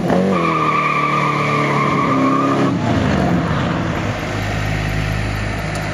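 Cobra-style roadster's engine revving as the car pulls away, its pitch rising and then levelling off, with a high steady squeal over it for about two seconds from just after the start. From about four seconds in, only a steady low hum remains.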